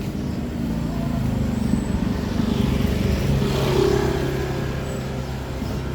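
A motor vehicle passing close by, its engine hum growing to a peak about three and a half seconds in, then easing off.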